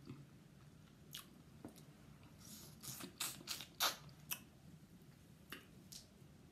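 Close mouth sounds of eating cooked jumbo shrimp: soft lip smacks and wet chewing clicks, most of them bunched together from about two and a half to four and a half seconds in.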